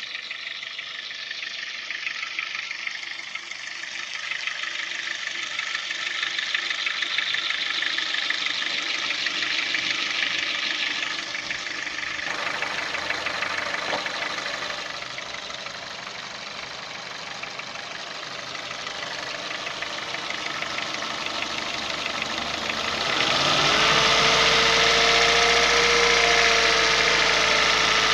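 Honda Jazz petrol engine running at idle with a rattling clatter, which the owner suspects is a stretched timing chain. About 23 seconds in it grows louder, with a low hum and a steady whine joining the rattle.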